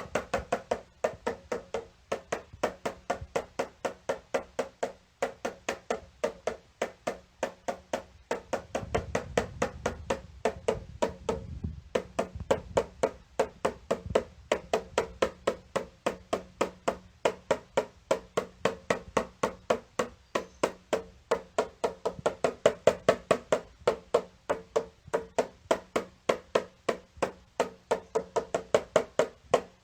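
A small drum tapped in a fast, even series of strikes, about three to four a second, each with a short hollow ring.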